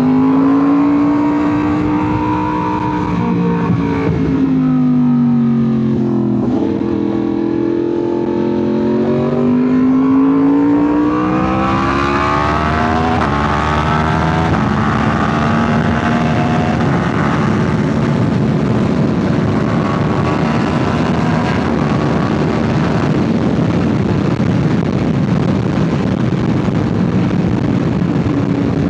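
2025 Yamaha R1's crossplane inline-four running through an SC Project CRT titanium exhaust while the bike is ridden, its note rising and falling with the throttle for the first dozen seconds. After that it holds a steadier pitch under a broad rush of wind.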